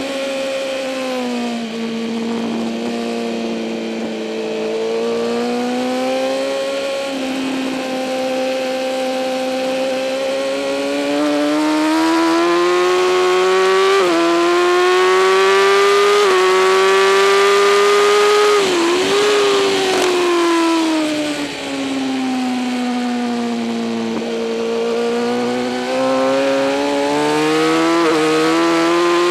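2008 Kawasaki ZX-10R's inline-four engine at race speed. The pitch eases off at first, then climbs for about ten seconds through several upshifts. It falls sharply around two-thirds of the way in as the bike slows for a corner, then climbs again near the end, with wind rush throughout.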